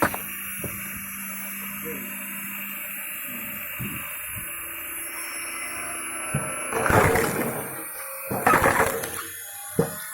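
Homemade screw-cone log splitter running steadily on its washing-machine motor, then, after about six and a half seconds, two loud crunching bursts of about a second each as a log is forced apart on the cone, followed by a sharp crack.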